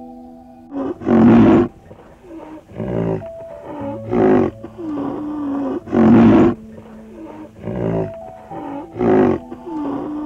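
A large mammal calling in a rhythmic series: loud, harsh calls every two to three seconds, with shorter, fainter pitched calls between them.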